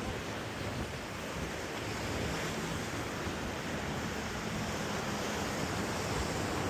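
Ocean surf washing against the rocks of a jetty, a steady rushing noise, with some wind buffeting the microphone.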